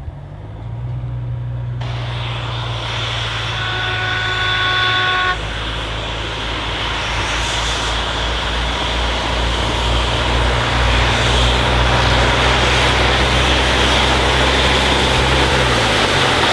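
Narrow-gauge train running with a steady low engine hum under a growing rush of running noise. One toot of its whistle lasts nearly two seconds, a few seconds in.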